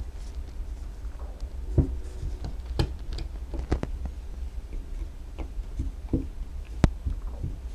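Small brake caliper parts and tools handled on a workbench: scattered light clicks and taps, the sharpest about two seconds in and near the end, over a low steady hum.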